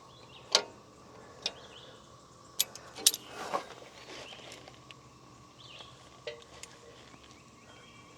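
A handful of sharp metallic clicks and clinks from wrenches working a nut on a bandsaw sawmill's head adjustment: one about half a second in, another near one and a half seconds, then a cluster around three seconds. Faint bird chirps are heard behind.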